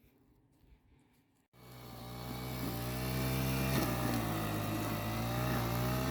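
Faint quiet ambience, then a cut about a second and a half in to a lawn mower's small petrol engine running steadily at constant speed.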